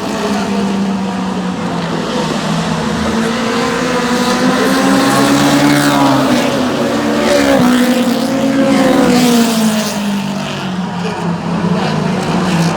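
Several stock cars racing around a short oval track, their engines running hard, with the pitch rising and falling as cars pass.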